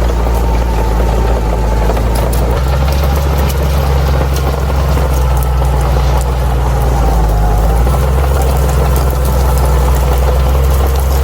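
Bulldozer's diesel engine running steadily under a low, even drone, its note shifting slightly twice.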